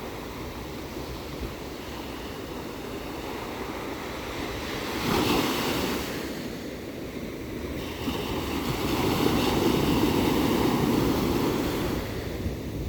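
Ocean surf: waves washing in with a steady rush, swelling louder about five seconds in and again for several seconds near the end.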